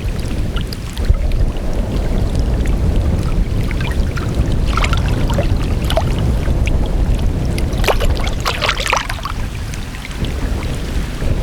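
Strong wind buffeting the microphone, with water splashing and lapping at the bank; the splashes come in clusters about five seconds in and again around eight to nine seconds.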